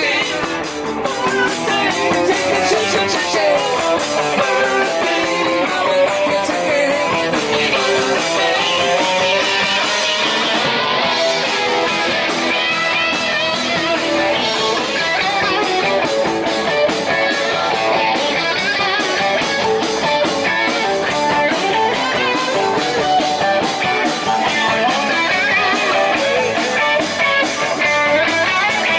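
Live rock band playing an instrumental passage: electric guitar lines over a drum kit, with no singing.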